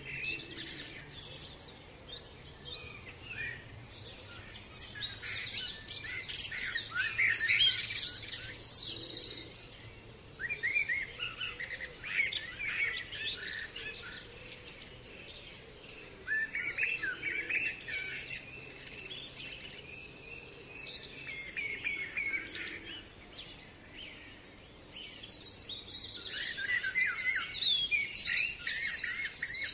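Songbirds singing in repeated bursts of fast trills and chirps, several phrases separated by short pauses, over a faint low background hum.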